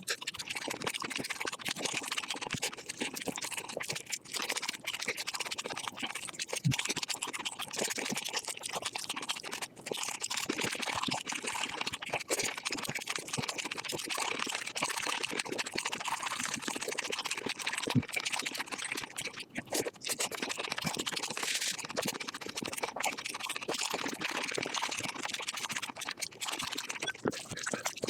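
Close-miked chewing and crunching of chicken, played back at five times speed, so the bites and mouth sounds run together into a dense, continuous crackle.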